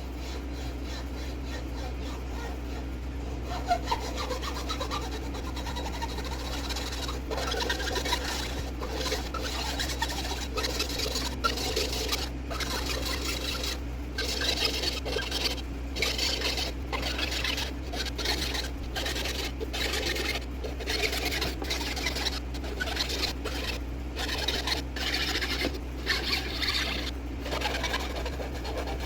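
Hand tool working an apple-wood branch for an adze handle, rasping or sawing in repeated back-and-forth strokes. The strokes start several seconds in and come in runs with short pauses, after a couple of light knocks.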